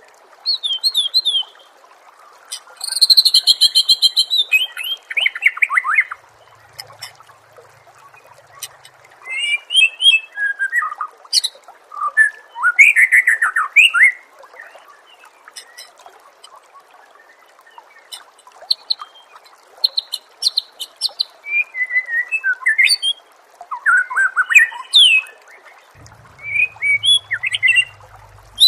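White-rumped shama (murai batu) singing loud, varied phrases of sweeping whistles, rapid trills and buzzy rattles, with short pauses between them, over a steady background hiss.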